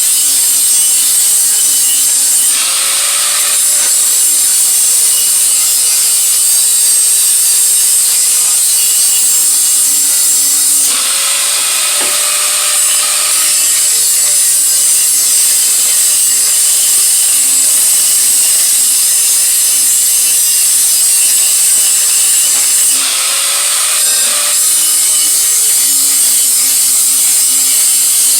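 Electric grinder working the steel of an exhaust head pipe with a steady, loud, hissing grind. Three times, about 2.5 s, 11 s and 23 s in, the grinding eases off and the motor's pitch rises briefly as the tool comes off the metal.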